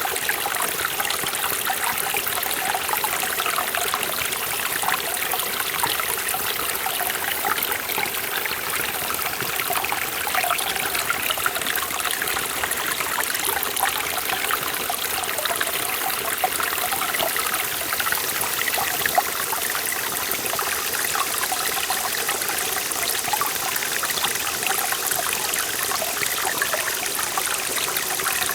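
Mountain stream flowing and splashing over rocks in a forest valley, a steady rush of water with many small bubbling splashes.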